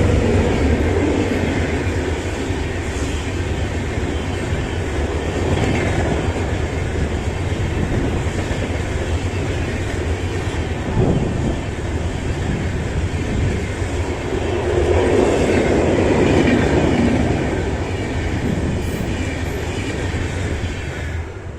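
Karnavati Express passenger coaches rushing past at speed, a loud steady rumble of wheels on rails with occasional clatter over rail joints.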